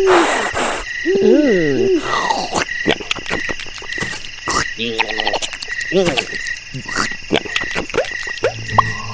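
Cartoon sound effects over a croaking, chirping nature background: a high chirp repeating about twice a second, many quick clicks, and a few wobbly up-and-down pitch glides.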